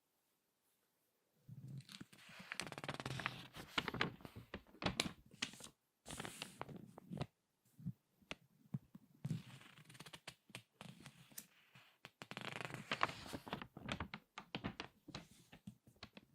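Crinkly magazine pages being squeezed and turned by hand, crackling in bursts of dense paper crinkles with short pauses between. Silent for about the first second and a half.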